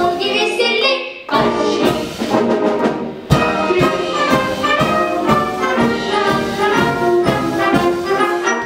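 Orchestral music with brass in an instrumental passage between sung verses, over a regular beat.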